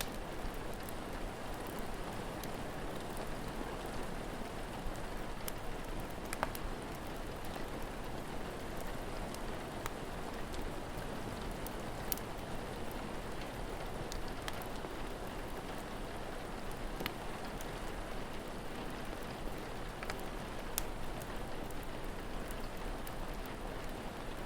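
Steady rain, with a few sharp crackles from a wood fire scattered through it.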